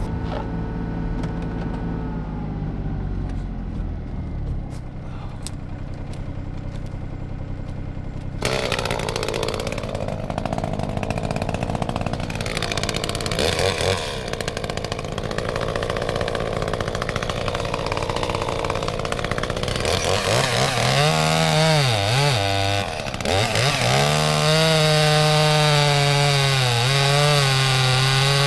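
Small chainsaw running and cutting through wood, its engine pitch dipping and recovering several times as it loads up in the cut.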